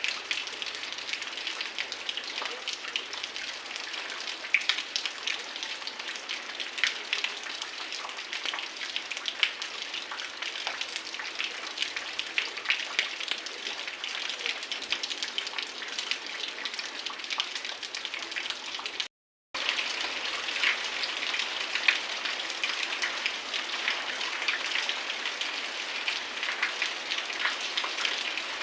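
Heavy rain falling steadily, with dense individual drop hits striking surfaces, and no thunder. The sound cuts out for about half a second roughly two-thirds of the way through.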